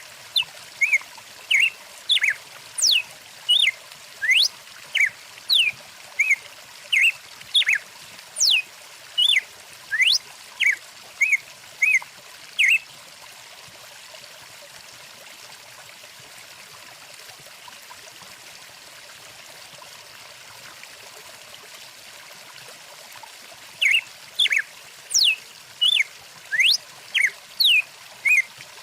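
A songbird calling in a quick series of short whistled notes, some sweeping up and some down, over the steady rush of a flowing stream. The bird falls silent for about ten seconds midway, leaving only the water, then starts again.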